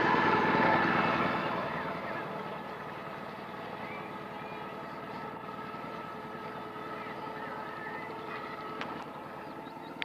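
A canal boat's engine running steadily, loudest at first and fading over the first two seconds as it moves away, then continuing at a lower level, with a few bird chirps in the second half.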